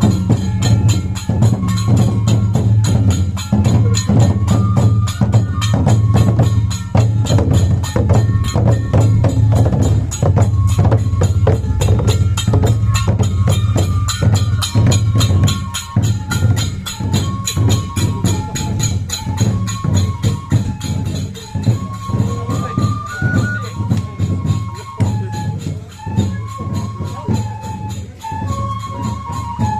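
Japanese festival folk-dance music: a flute melody moving in steps over a fast, steady clatter of small percussion and drumming.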